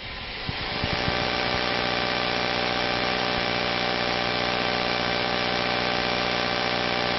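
1998 GMC Sierra 1500's 5.7 liter V8 comes up to speed about a second in, after a few faint knocks, and then idles steadily.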